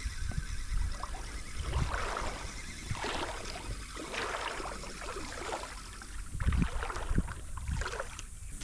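Creek water splashing and trickling in irregular bursts every second or so, over an uneven low rumble.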